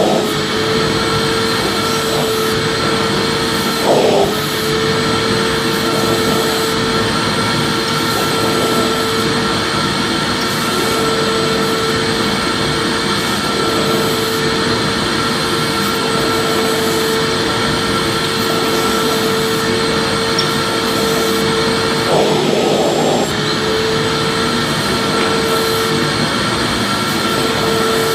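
Vacuum cleaner running steadily: a continuous rush of air with a steady mid-pitched whine, briefly wavering right at the start, around four seconds in, and again about 22 seconds in.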